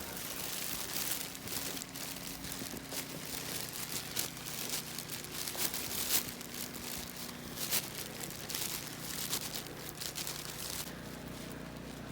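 Footsteps crunching and squeaking through deep fresh snow, with irregular crackling strikes and rustling as each foot sinks in.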